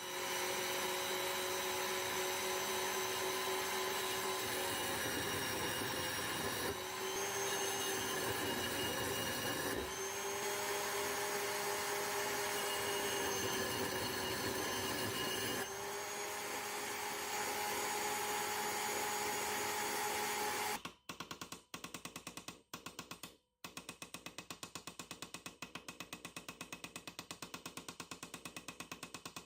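Electric power tool running steadily with a motor whine, over several spliced takes. About 21 seconds in it gives way to a rapid, evenly pulsing tool sound.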